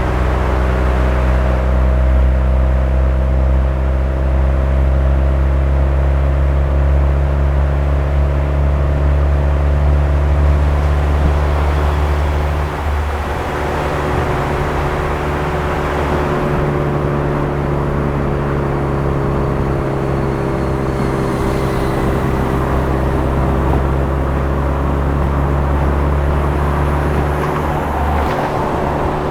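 Suzuki Swift Sport ZC33S's 1.4-litre turbocharged four-cylinder engine with a Fujitsubo aftermarket exhaust, running at a steady cruise with a continuous low exhaust drone and only slight changes in pitch. There is a brief break in the note about thirteen seconds in.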